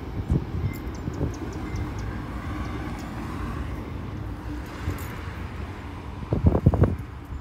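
Train rolling past on the tracks: a steady low rumble of wheels on rail, with scattered thumps and a quick cluster of louder thumps near the end.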